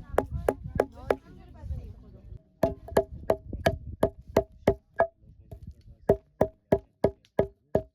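Knife chopping on a cutting board for about a second. It is followed by an even run of sharp knocks with a pitched ring, about three a second, with a short pause near the middle.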